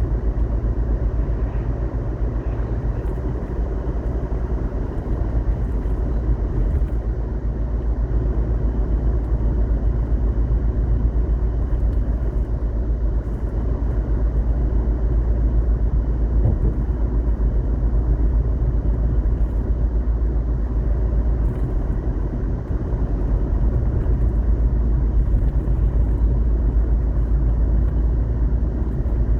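Steady rumble of a moving road vehicle, with heavy low buffeting typical of wind on the microphone while travelling.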